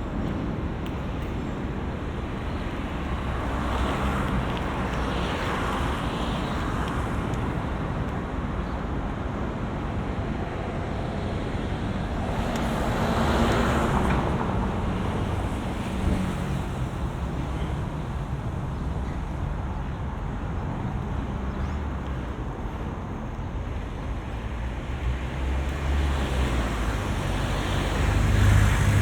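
Road traffic passing close by: a steady hiss of tyres and engines with several vehicles swelling and fading as they go past, over a low wind rumble.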